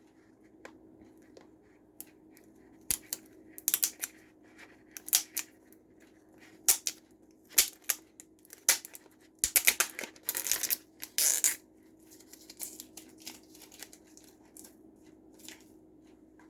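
A plastic DVD case and its packaging being handled and forced, giving irregular sharp clicks and short rustles, thickest in the middle and thinning out after about eleven seconds.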